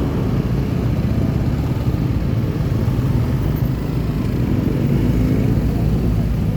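Motorcycle engine running steadily as the bike rides along the road, over an even rush of noise.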